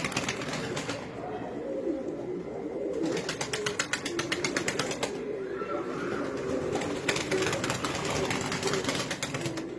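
Many domestic pigeons cooing together in overlapping low calls, with three spells of rapid clattering about two seconds long: at the start, around the middle and toward the end.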